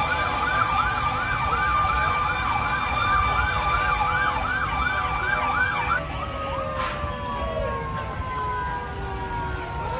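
Emergency vehicle siren in a fast yelp, about two and a half rising sweeps a second, over a steady low rumble. About six seconds in it changes abruptly to slower wailing sirens, several overlapping, their pitch gliding slowly down.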